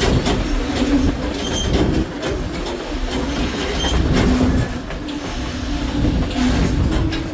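Passenger railroad cars rolling along the track, heard from aboard: a steady wheel rumble with irregular clicks from the rail and a few short, thin wheel squeals.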